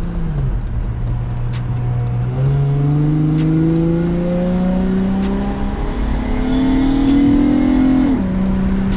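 Acura TL SH-AWD's J37 V6, fitted with pre-cat deletes and a J-pipe, accelerating hard: a raspy engine and exhaust note climbs steadily, dips at a gear change, climbs again and drops at another upshift about eight seconds in. Background music with a steady beat plays over it.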